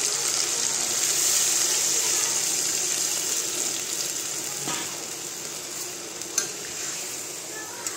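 Chicken and potato curry sizzling hard in a hot pan as water goes in. The sizzle is loud at first and dies down over the next few seconds. Two short sharp clicks come near the middle and later.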